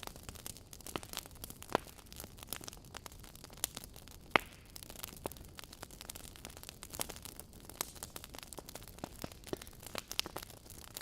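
Wood fire crackling: irregular sharp pops and snaps over a low steady hiss, with one louder pop about four and a half seconds in.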